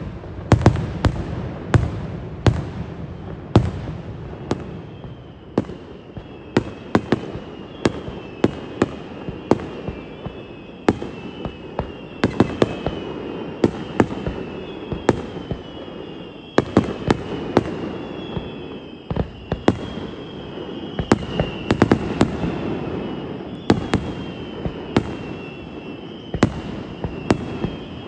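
Aerial fireworks going off: an irregular run of dozens of loud, sharp bangs over a low rumble, echoing through the surrounding mountains. From about four seconds in, a faint high whistle that falls in pitch recurs every second or two.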